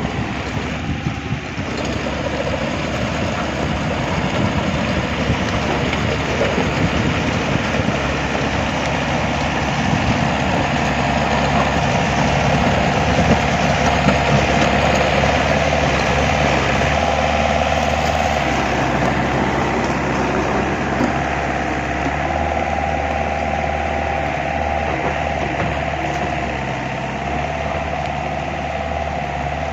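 A vehicle engine running steadily, slightly louder about halfway through.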